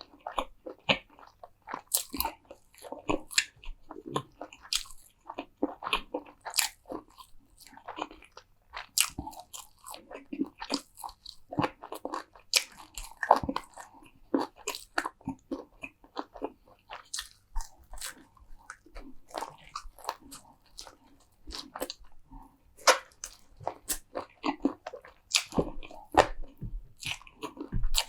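Close-miked eating: crunchy food being bitten and chewed, with sharp, irregular crunches coming several times a second and a few louder bites in the second half.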